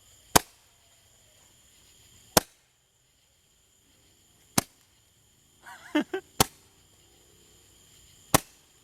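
Roman candle firing, five sharp pops about two seconds apart as each ball is launched.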